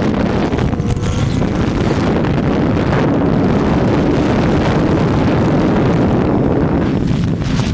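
Racing motorcycle running at speed, its engine partly buried under heavy wind noise on the microphone, which stays steady and loud throughout.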